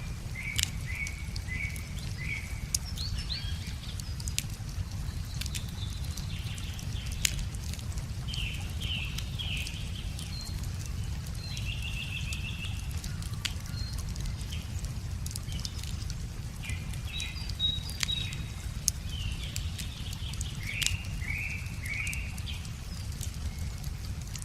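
Wood fire crackling with scattered sharp pops, while small birds chirp in short repeated phrases, over a steady low rumble.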